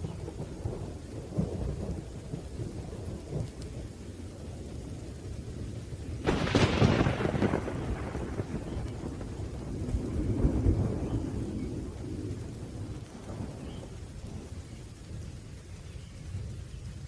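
Thunderstorm: low rolling thunder under steady rain, with a sudden sharp thunderclap about six seconds in that rumbles away, and another swell of rumbling a few seconds later.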